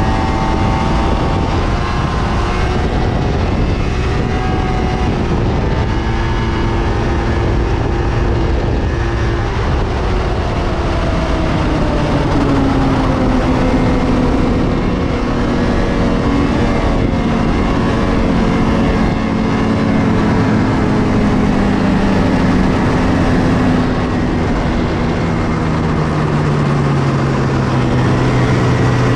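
1997 Polaris XCR 600 snowmobile's two-stroke three-cylinder engine with factory triple pipes running under load, its note high at first and then easing slowly lower through the second half.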